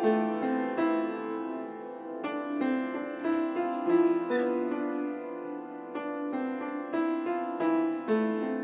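Background piano music: slow single notes and chords, each struck and left to ring.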